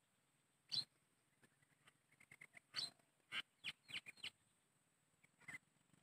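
Short, sharp bird calls against near silence: a single call, a longer one, then a quick run of about five notes, and one more near the end. A faint steady high hiss lies underneath.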